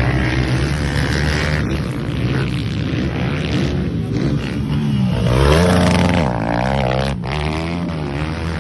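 Motocross bike engines running and revving, with the pitch dipping and then climbing again about five seconds in.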